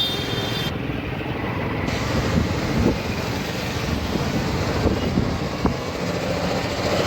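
Street traffic: a steady low rumble of vehicle running noise with a few small knocks.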